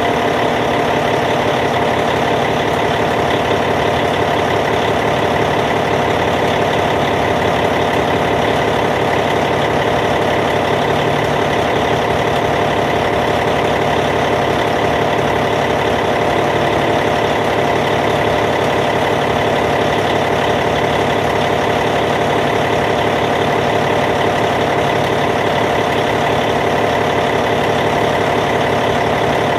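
Caterpillar C15 diesel engine in a Cat D8T bulldozer idling steadily.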